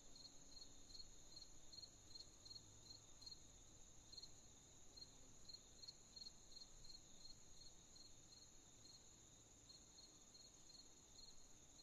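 Crickets chirping faintly in the night: one steady high trill, with another cricket chirping in short regular pulses about three times a second.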